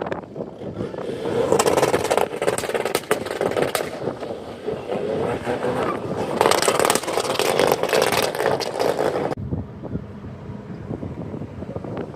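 A car engine revving loudly, its pitch rising, then cutting off abruptly about nine seconds in.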